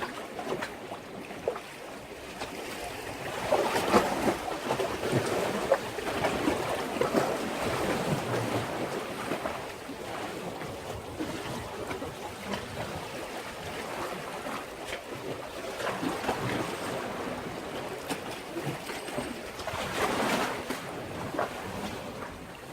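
Sea waves washing and splashing against a breakwater, with many small splashes. The surf swells louder a few seconds in and again near the end.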